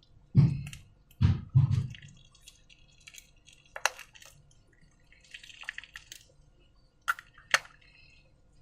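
Slime being handled: three wet squelching plops in the first two seconds, then a few sharp light clicks and taps.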